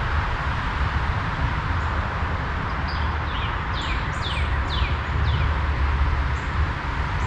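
Steady rush of flowing river water with a low wind rumble on the microphone. About three seconds in, a bird sings a quick run of about six falling notes.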